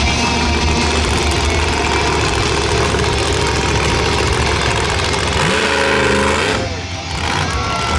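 Monster truck engine running loud and steady, then revving up about five and a half seconds in before dropping off sharply a second later.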